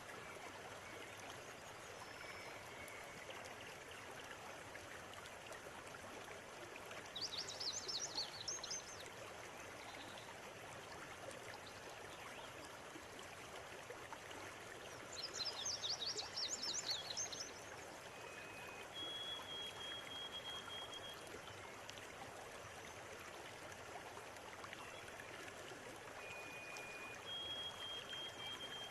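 River water running steadily, with birds singing over it: two bursts of rapid, high trilling song about seven and fifteen seconds in, and a few long, steady high notes later.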